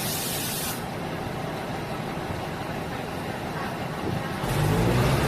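Diesel multiple-unit railcar running, with a steady rumble. A short burst of hiss comes right at the start, and near the end the diesel engine grows louder with a clear pitch.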